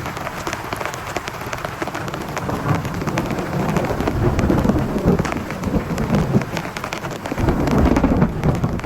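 Heavy rain falling on a tent, a dense stream of drop ticks, with thunder rumbling low. The rumble swells about midway and again near the end.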